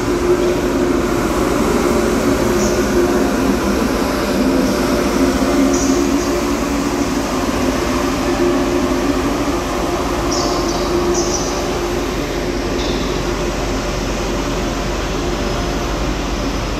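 Trenitalia Frecciarossa 1000 high-speed electric train at a station platform: a steady hum, with a few brief high-pitched squeaks.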